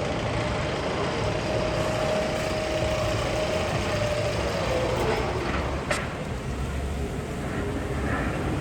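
Machine-like sound effect from the roller coaster tunnel's speakers: a steady rumble with a held whine that slides down in pitch about five seconds in, like a machine powering down, then a sharp click near the six-second mark.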